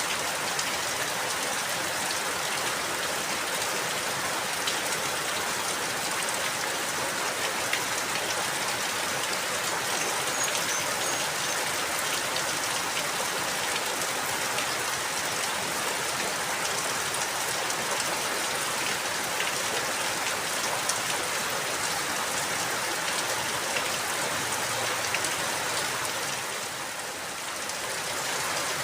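Steady rain falling, with many small drop ticks on a surface. The level dips briefly near the end, then comes back.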